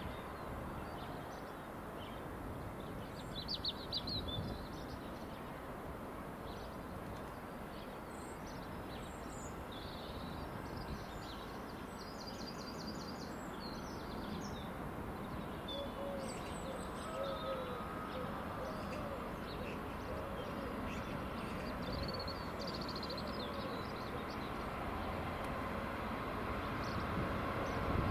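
Songbirds chirping and twittering over a steady low outdoor rumble that slowly grows louder toward the end.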